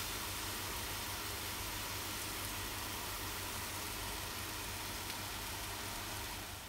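Steady sizzling hiss of shredded chicken filling frying in a pan over a gas flame, with a low hum underneath.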